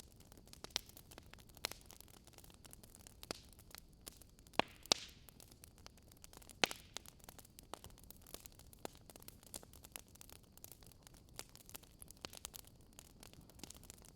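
Wood fire crackling: irregular sharp pops and snaps, the loudest about five and seven seconds in, over a faint steady background noise.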